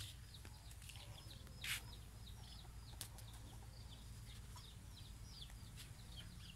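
Birds chirping faintly: many short, high, falling chirps, several a second, with a brief rustling noise about two seconds in.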